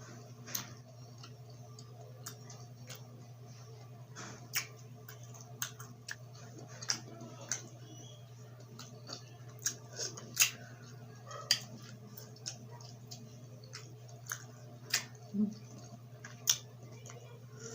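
Close-up eating sounds of grilled street food: chewing with wet mouth smacks and irregular sharp clicks, over a steady low hum.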